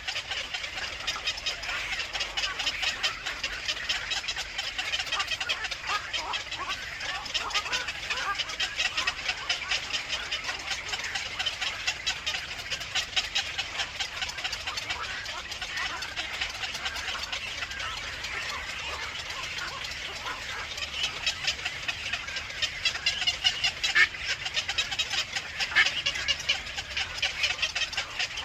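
Birds at a nest chattering in a rapid, unbroken stream of short, high calls, with a few louder calls near the end.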